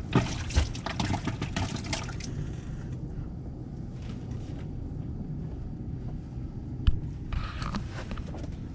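Water splashing and sloshing in short spells, over a steady low rumble, with a single sharp knock about seven seconds in.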